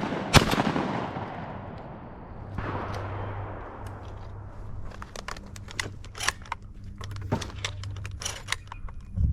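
A shotgun shot about half a second in, its report echoing away over the next second or so, then a softer, more distant shot a couple of seconds later. After that come scattered light clicks and clatter over a low steady hum.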